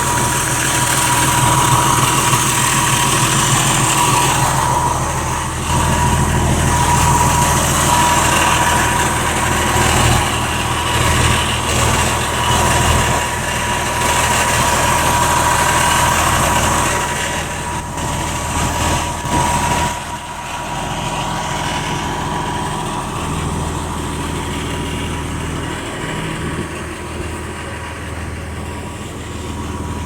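Cummins 8.3-litre inline-six diesel of a Blue Bird All American school bus running steadily, with a steady high tone over it that fades about two-thirds of the way through.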